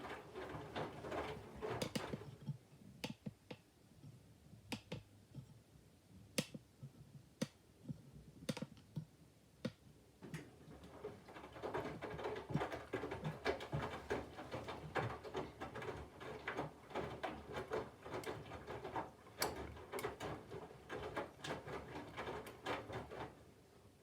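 Candy front-loading washing machine turning its drum to weigh the load: laundry tumbling with scattered clicks and knocks, a steadier run of clatter and motor hum in the first couple of seconds and again from about halfway, cutting off suddenly near the end.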